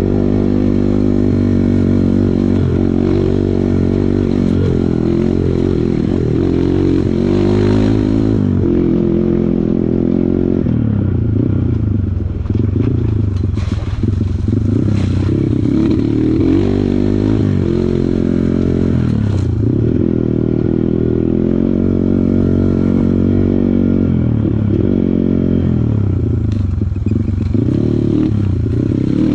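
Kawasaki KLX140 dirt bike's single-cylinder four-stroke engine revving up and down over and over as the throttle opens and closes, with a few sharp knocks around the middle.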